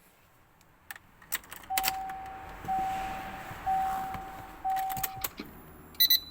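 Keys jangling and clicking, then a car's warning chime beeping four times in a steady pattern, typical of a key left in the ignition or a door open on a 2002 Subaru Legacy BH5. A low steady hum begins near the end.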